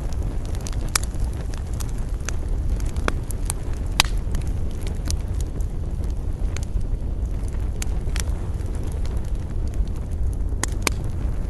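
Wood campfire crackling, with sharp irregular pops scattered through it over a steady low rumble of wind. The loudest pop comes about four seconds in.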